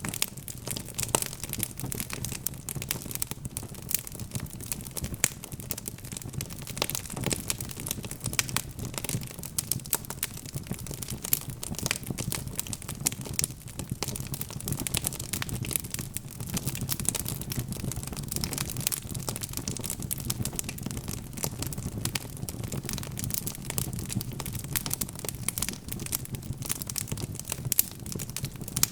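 Wood fire burning with dense, continuous crackling and popping over a low steady rumble of the flames.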